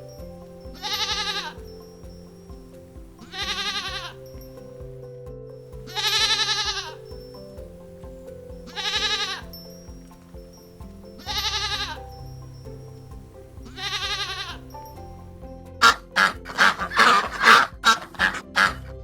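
Six bleating calls, each about half a second long and coming about every two and a half seconds, over steady background music. In the last few seconds comes a quick, louder run of short, sharp animal calls.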